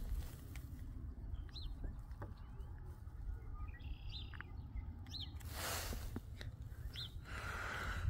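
Small birds chirping: short, high chirps every second or two over a low steady rumble, with a brief rush of noise about two-thirds of the way through.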